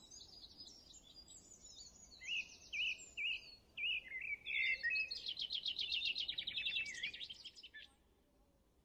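Songbirds singing: a busy mix of chirps and whistled up-and-down notes, with a fast trill through the middle, falling silent near the end.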